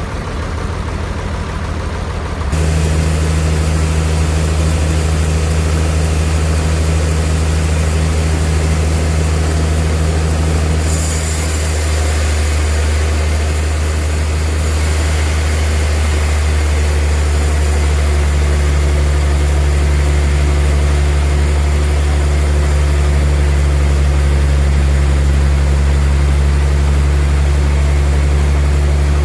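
Heavy bandsaw sawmill machinery running steadily with a deep hum. It gets suddenly louder about two and a half seconds in, and a brief high hiss comes near the middle.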